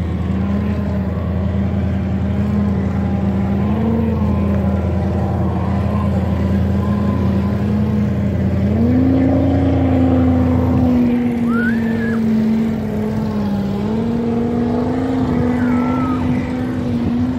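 Ford truck's engine running under load. Its pitch steps up about nine seconds in and holds higher, dips briefly, then rises again near the end.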